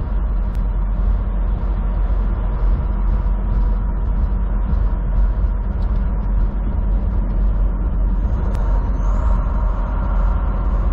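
Steady low drone of a vehicle driving on a snowy highway, heard from inside the cab: engine and road noise with no breaks.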